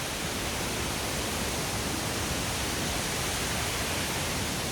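Waterfall running, a steady rush of falling water.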